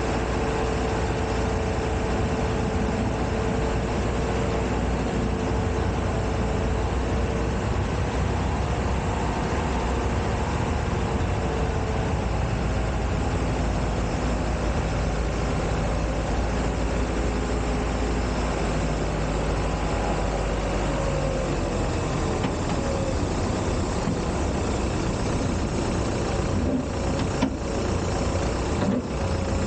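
Steady, loud noise of an Embraer 175 jet and its ramp machinery during pushback, a constant rumble with several steady hums whose pitches shift over time.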